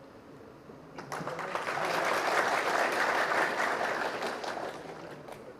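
Audience applauding: claps start about a second in, build to a peak, then die away near the end.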